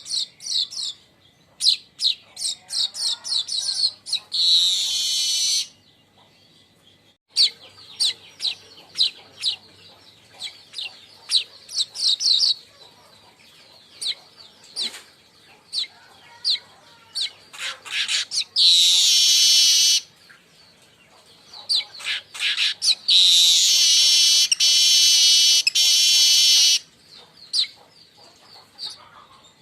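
Manyar weaver birds chattering: quick runs of sharp, high chips, broken three times by a long, buzzy, wheezing song lasting a few seconds, with a brief pause early on.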